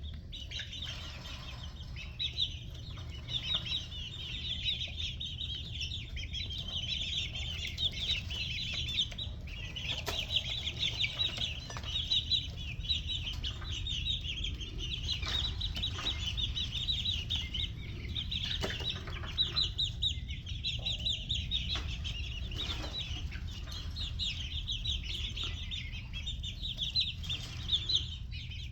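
A flock of six-week-old red junglefowl chicks peeping continuously in dense, high chirps, over a steady low hum, with occasional short knocks.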